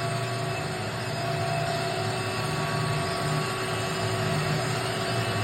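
Steady mechanical drone: a continuous rumble with a few constant humming tones.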